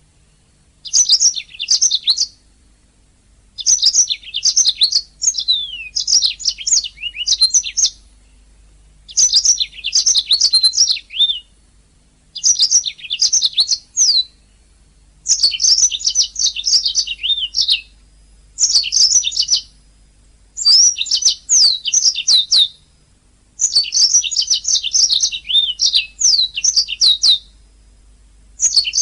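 Domestic canary singing in rapid trills and quick downward-sweeping notes, in phrases of one to two seconds broken by short pauses, about nine phrases in a row.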